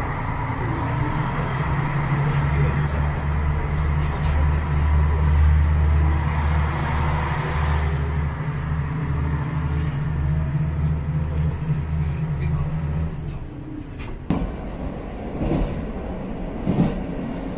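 Diesel railcar's engine working as the train pulls out of the station, a steady low drone that throbs as it builds up speed. Then, about 14 seconds in, the rattle and knocks of the wheels over the rails as the railcar runs along.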